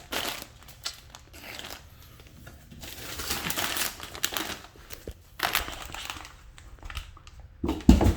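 Packaging crinkling and rustling in irregular bursts as it is handled, with a single low thump near the end.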